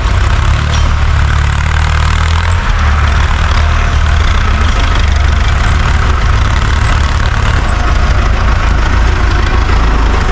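Tractor engine running steadily at a low, even pitch, with no change in speed.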